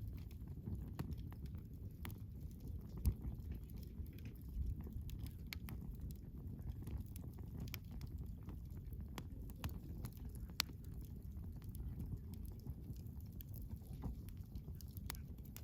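Wood campfire burning: irregular sharp crackles and pops from the logs over a low, steady rumble. There is a louder pop about 3 seconds in and another about 10 seconds in.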